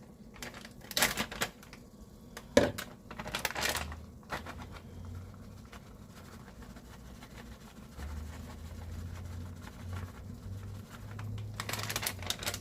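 Kitchen handling sounds while cheese is added to a pan of hot food: rustling and small clicks, with one sharp knock about two and a half seconds in and a faint low hum later on.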